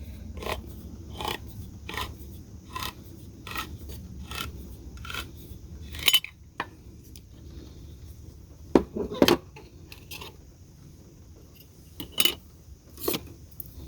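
A metal kitchen utensil clicking and scraping against an opened can. There is a run of light clicks about once a second at first, then a few sharper knocks.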